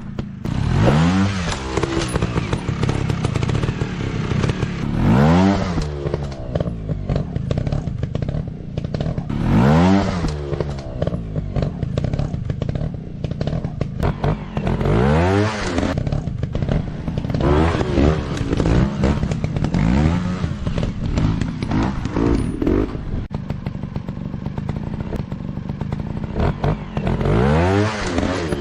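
Dirt-bike engine revving up and dropping back again and again, with big revs about every five seconds and quicker blips in between, over a steady engine drone with rattling and scraping.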